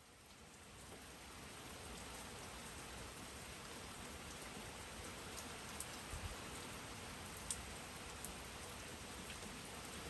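Steady rain falling, with a few sharp drip ticks, fading in over the first couple of seconds.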